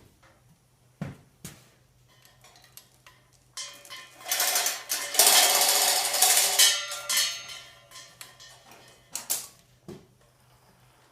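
Metal clanking and scraping as the split halves of an International 240 tractor are moved apart. A few sharp knocks come first, then a loud rattling scrape of about four seconds with metal ringing as it dies away, then a couple more knocks.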